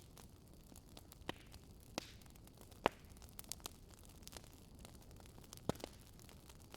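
Wood fire crackling: scattered sharp pops and snaps over a soft, steady hiss, with the loudest pop a little under three seconds in and another near the end.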